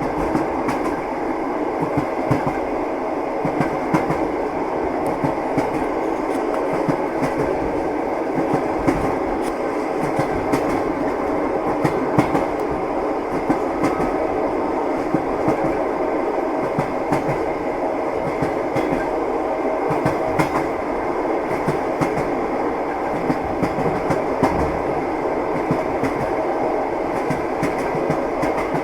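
A moving train: the steady rumble of the railway carriage, with the wheels clattering over rail joints in frequent short clicks.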